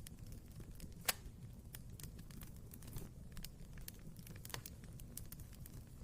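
Wood fire crackling in a fireplace: a steady low rumble of burning with frequent small snaps, and one sharp loud pop about a second in.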